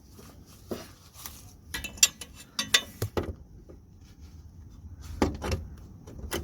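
Metal tools clinking and knocking against the car's underbody at a handbrake cable bracket bolt: a series of separate sharp clicks and clanks, bunched about two to three seconds in and again about five seconds in.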